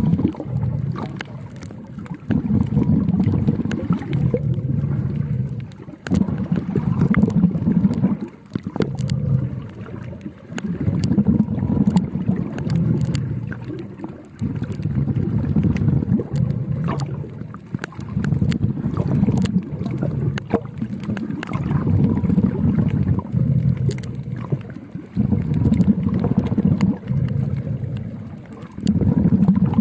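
Underwater breathing of a snorkeler or diver heard through the camera: slow, regular surges of bubbling and airflow about every two to three seconds, with scattered small clicks.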